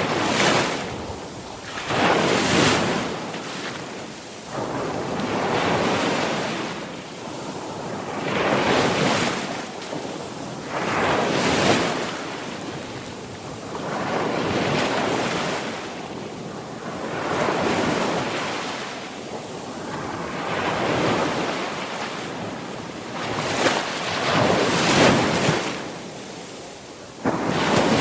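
Sea waves breaking and washing on a shore, one surge swelling and fading about every three seconds, with wind on the microphone.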